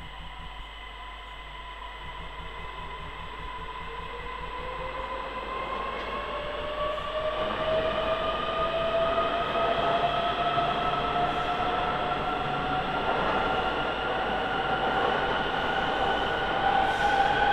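Passenger train pulling away from the platform and accelerating past, its running noise growing steadily louder and a two-tone whine rising in pitch.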